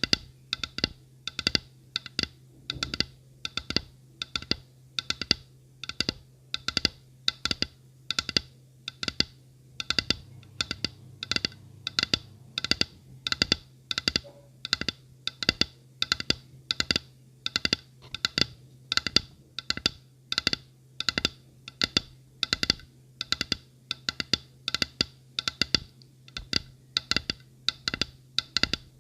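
Tapping on a hard object in a steady rhythm, about two to three taps a second, over a faint low hum.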